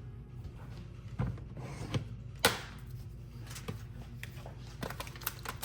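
Kitchen containers and utensils being handled: a string of light knocks and clicks, with one sharper clack about halfway through, over a low steady hum.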